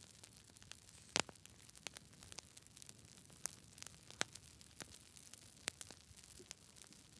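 Campfire burning: irregular sharp crackles and pops over a faint hiss, the loudest pop about a second in.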